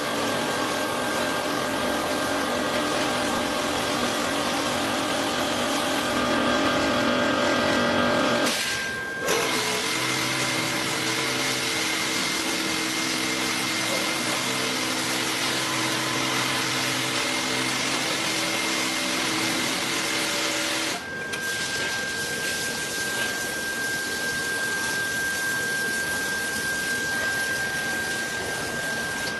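Washing machine running: a steady motor whine over a rushing noise. The sound changes character abruptly about nine seconds in and again about twenty-one seconds in.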